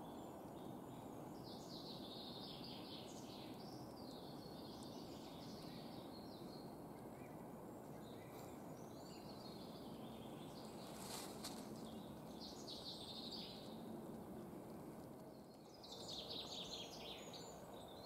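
Songbirds singing short chirping phrases every few seconds over a steady background hush, with one short click about eleven seconds in.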